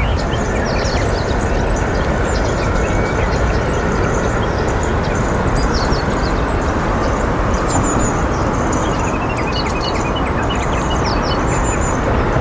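Many short, high bird chirps scattered throughout over a loud, steady rumbling background noise, with a thin, steady very high-pitched whine above it all.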